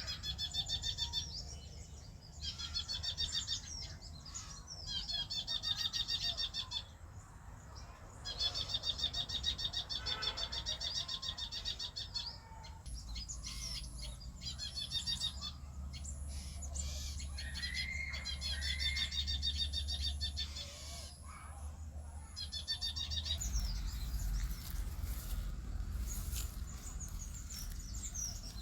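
A songbird singing repeated fast trilled phrases, each lasting one to four seconds with short pauses between them, over a steady low rumble. A row of evenly spaced faint high ticks runs through the middle.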